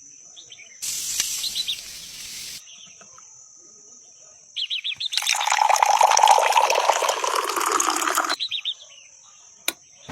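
Water running in two bursts, a short one and then a longer, louder one that starts and ends with quick gurgling pulses, over a steady high insect chirp and bird chirps; a sharp click near the end.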